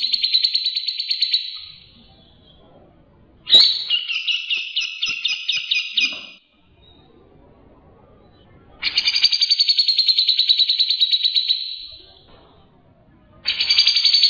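Songbird singing fast rattling trills of the kind Indonesian bird keepers call 'tembakan' (shots). The trills come in phrases of about three seconds each, with short pauses between them. One phrase is already under way at the start, another opens about three and a half seconds in with a sharp note, a third follows after the middle, and a fourth starts near the end.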